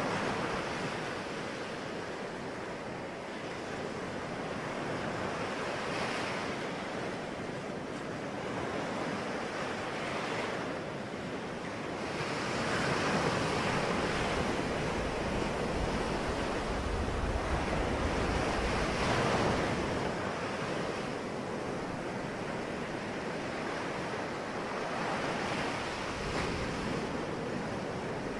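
Ocean waves breaking and washing on the shore, a steady surf that swells and eases every few seconds, with a deeper rumble about halfway through.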